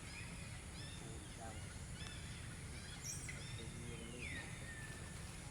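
Scattered short high-pitched animal calls, chirps and squeaks with one longer falling call about four seconds in, over a steady low background noise.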